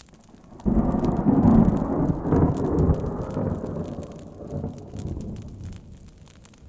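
A clap of thunder: a sudden loud, deep rumble that starts about a second in, rolls on and fades away over about five seconds.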